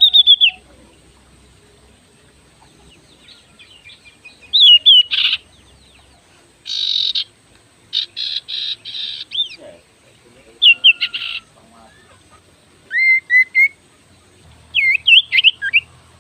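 Oriental magpie-robin (kacer) singing in separate bursts: clear, sweeping whistled notes mixed with harsh, rasping chatter, with pauses of a second or two between phrases.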